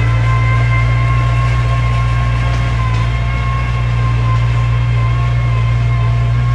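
Heavy earthmoving machine's diesel engine running steadily under work, a deep hum with a steady high whine over it.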